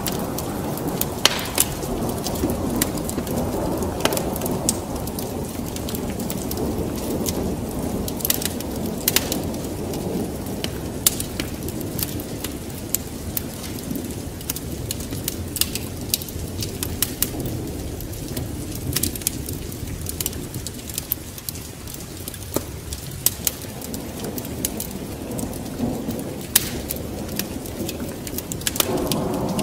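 Wood fire crackling with many sharp pops, over a low rolling rumble of thunder and rain that swells and eases.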